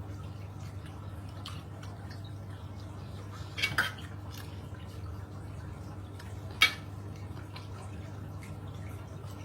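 Eating noises from a meal of papaya salad with chicken feet: a short cluster of sharp clicks about three and a half seconds in and one sharper, louder click a few seconds later, over a steady low hum.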